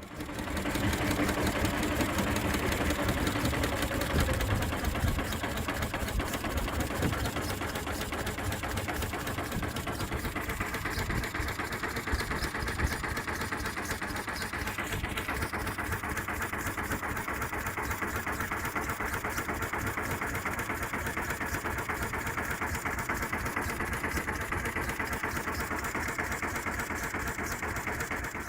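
1936 Olympia marine engine running steadily, with a rapid even beat from its firing. Its tone shifts slightly about halfway through.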